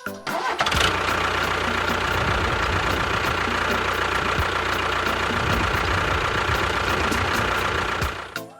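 A vehicle engine starts and runs steadily with a low hum for about eight seconds, then stops shortly before the end.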